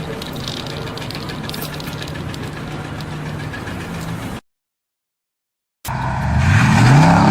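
A motor vehicle engine running steadily; after an abrupt silence of about a second and a half, an engine revs up, louder, its pitch climbing.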